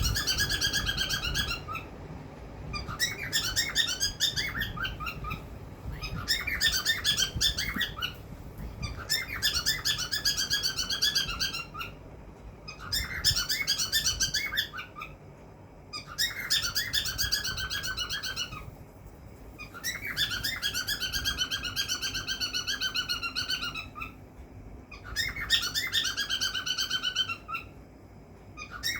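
Cockatiel singing: warbled chirps and whistles in repeated phrases of a few seconds each, with short pauses between them.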